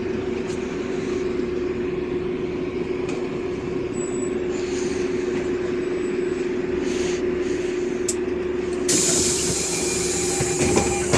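LiAZ 5292.65 city bus running with a steady engine drone, heard from inside the cabin. About nine seconds in, a loud hiss of compressed air bursts out of the bus's pneumatic system and lasts a couple of seconds, with a few knocks near the end.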